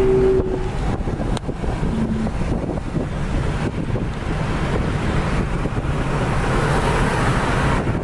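Car driving at speed: a steady low engine and exhaust drone under road and wind noise, swelling a little near the end.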